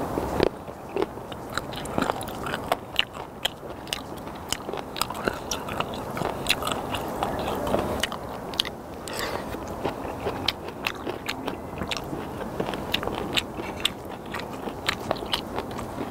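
Close-up chewing of sliced raw skate and kimchi: wet, crunching bites with many short clicks, steady throughout.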